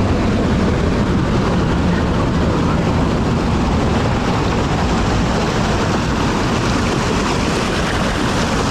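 Steady rushing noise of a waterfall close by, loud and unbroken.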